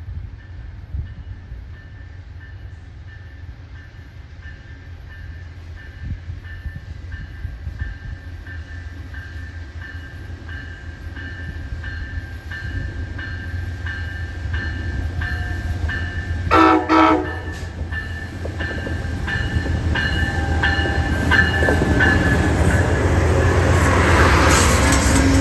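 A train approaching, its rumble and rattle growing steadily louder. About two-thirds of the way in, a locomotive horn sounds one short blast.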